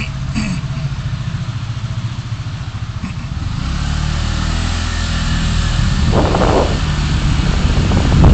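Car engine and road noise, a low hum that grows steadily louder as the car picks up speed, with a brief louder rush about six seconds in.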